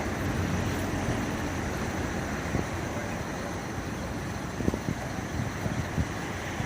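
Steady vehicle engine noise with a low rumble, and a few short knocks in the second half.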